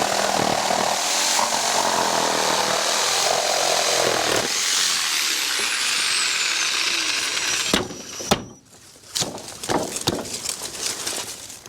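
Electric power saw cutting through a rough-sawn timber gravel board. It runs steadily for about eight seconds, its high whine falling away as it winds down, then stops. A few sharp knocks follow.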